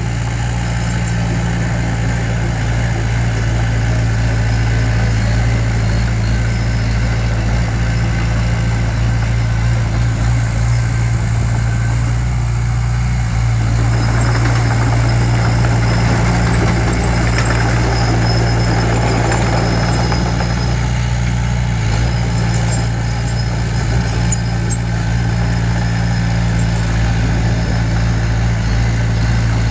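Heavy diesel engine of earthmoving machinery running steadily at a constant speed. A rushing noise joins in for several seconds in the middle.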